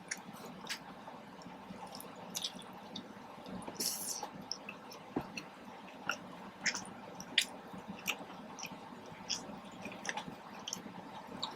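Mouth sounds of someone chewing soft chicken street tacos: scattered short, wet clicks and smacks.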